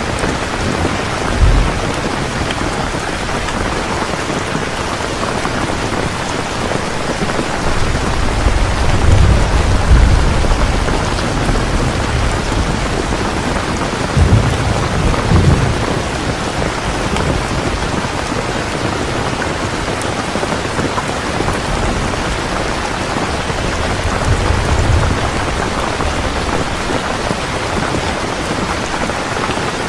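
Heavy rain falling steadily, with rolls of thunder rumbling low through it: a short crack about a second and a half in, a longer roll about a third of the way through, another around the middle, and a softer one near the end.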